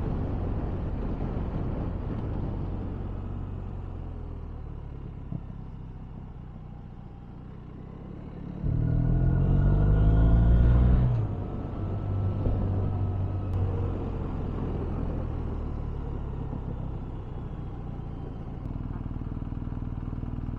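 BMW touring motorcycle engine running on the move, with wind noise. About nine seconds in it revs up, rising in pitch for about two seconds under acceleration, then drops back. Near the end it settles to a low steady run at walking pace.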